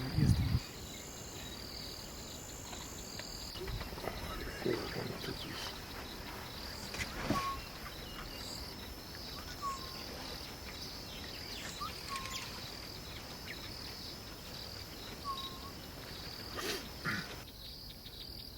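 Outdoor bush ambience of insects calling steadily, a high pulsing chirp at about two pulses a second, with a few short chirps, likely birds, scattered through it.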